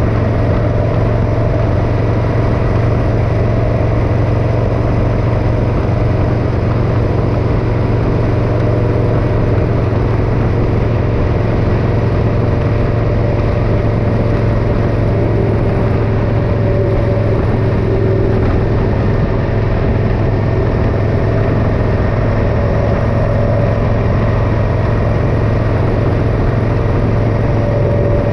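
Motorcycle engine running at a steady speed, a constant loud drone that holds the same pitch throughout.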